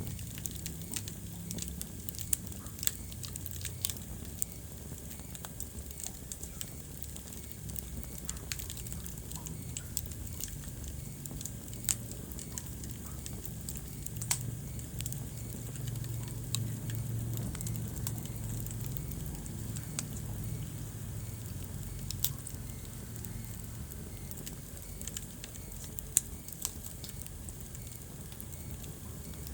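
Wood fire burning in a fireplace: a steady low rumble of flames with scattered crackling and sharp pops, a handful of them louder than the rest.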